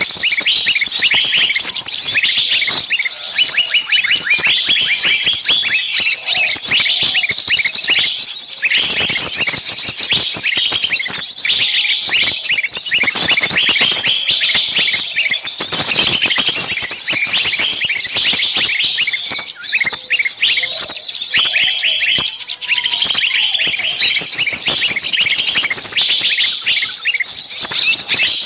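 Dense chorus of many small songbirds chirping and calling shrilly over one another without pause, a bird-trapping lure recording of noisy, agitated calls meant to sound like a bird screaming in a trap.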